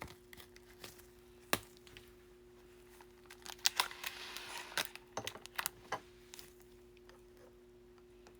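Foil wrapper of a trading-card pack crinkling and tearing open, with scattered light clicks and taps of cards being handled. The crinkling is strongest around the middle, over a faint steady hum.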